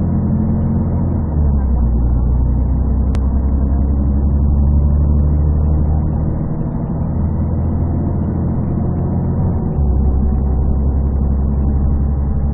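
The Scania DSC 11 diesel straight-six of a 1998 Scania CN113CLL city bus with a Voith D863.3 automatic gearbox, running under way and heard from inside the bus. It sounds bass-heavy and muffled because the phone microphone was partly covered. The engine's pitch drops about a second in, rises around six and a half seconds, and drops again near ten seconds, with a single short click about three seconds in.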